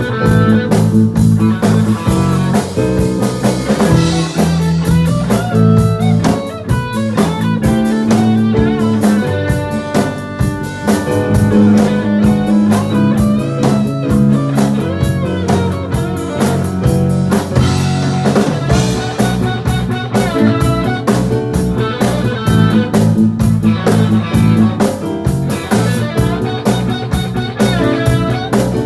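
A live rock band playing loud through a PA: electric guitar over a drum kit, with no break in the music.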